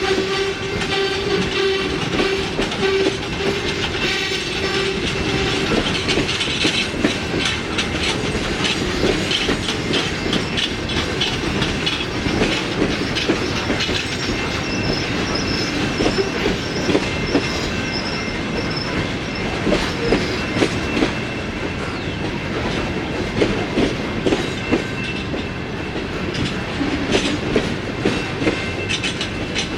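Freight train rolling past, its wheels clicking and knocking over the rail joints, with a horn note fading out in the first few seconds. A faint high wheel squeal comes in about halfway through.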